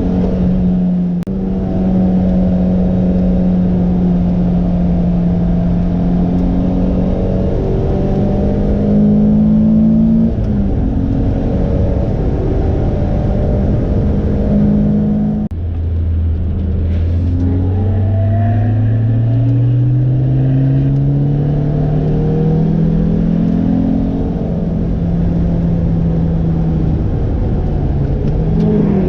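Lotus sports car engine heard while lapping a circuit, held at fairly steady revs with a brief dip about a second in. About halfway through the pitch drops sharply at a gear change, then climbs steadily as the car accelerates.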